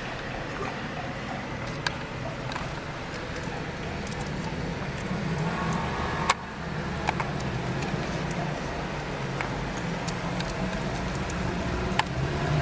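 Steady car engine and road noise heard from inside the cabin while driving slowly through city streets, with a few sharp clicks, the loudest about six seconds in.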